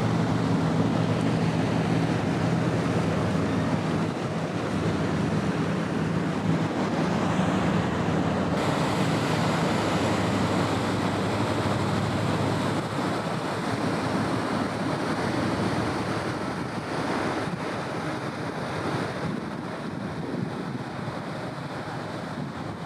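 A ship's engine hum of steady low tones that fades out after about eight seconds, under a constant rush of wind on the microphone and water.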